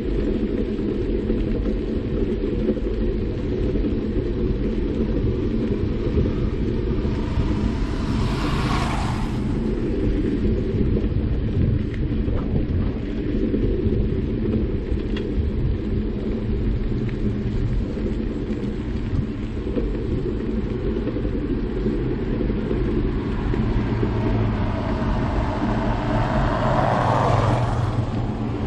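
Steady wind rumble on the microphone while riding a bicycle on a street, with two vehicles passing, one about nine seconds in and one near the end.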